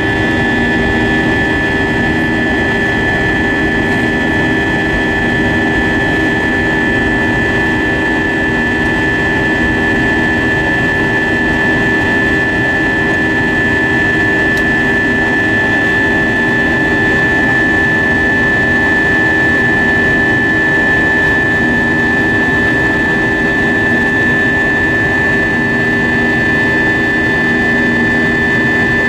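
Airbus A320-232 jet engines, IAE V2500 turbofans, running steadily as heard inside the passenger cabin: a constant rushing noise with a steady high whine over it.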